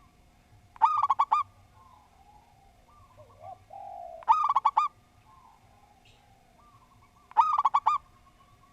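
Zebra dove (perkutut) cooing: three loud phrases about three seconds apart, each a quick run of about five rolling notes, with softer cooing between them.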